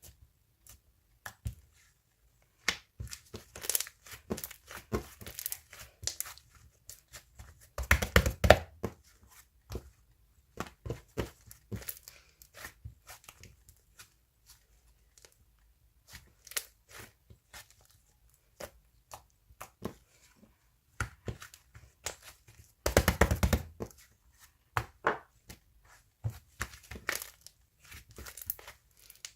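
Irregular close-up handling noises: rustling, crinkling and tearing with scattered taps and clicks, and two louder stretches of rustling about eight seconds in and again a little after twenty seconds.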